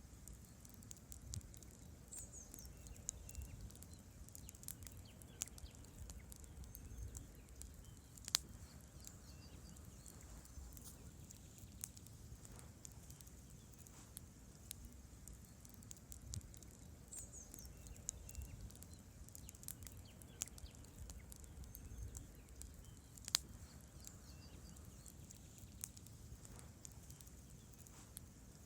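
Wood campfire burning: logs crackling with irregular sharp pops over a low rumble of flame, with two louder pops standing out.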